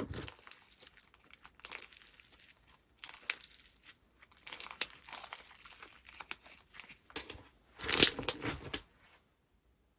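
Slime being squeezed and pulled, giving crinkly crackling and tearing sounds in uneven bursts. The loudest burst comes about eight seconds in, and it stops about a second before the end.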